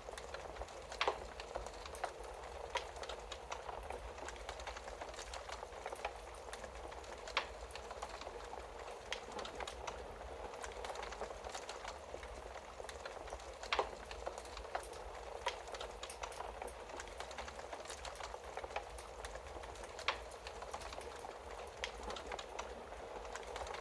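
Wood fire burning in a fireplace: a steady soft hiss with frequent small crackles and pops, and a few sharper snaps scattered through.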